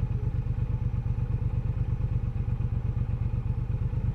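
Triumph Bobber's 1200 cc parallel-twin engine idling steadily, a regular low pulsing beat with no revving.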